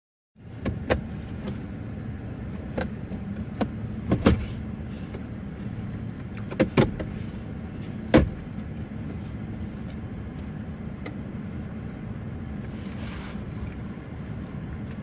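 Polaris SLT780 personal watercraft's two-stroke engine running steadily at low revs, with several sharp knocks and clicks over the first half, the loudest about eight seconds in.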